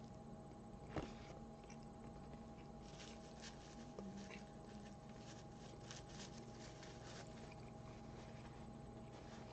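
Faint close-up chewing of a crispy bacon chicken sandwich, with small crunching clicks that come thickest around the middle, over a faint steady hum.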